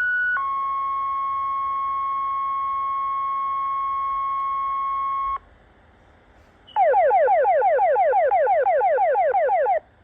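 Fire dispatch tone-out over a radio: a higher tone gives way to a lower steady tone held about five seconds. After a short pause comes a rapid run of falling sweeps, about seven a second, lasting some three seconds. This is the page that alerts the fire company to respond.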